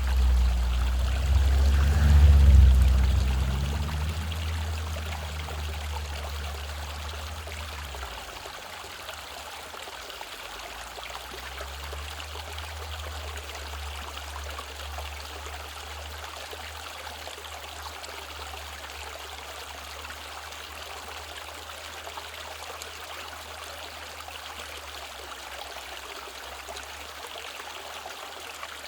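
Mountain valley stream, the steady rush of flowing water. At the start a low rumble with a faint hum swells, is loudest about two seconds in, and fades away by about eight seconds.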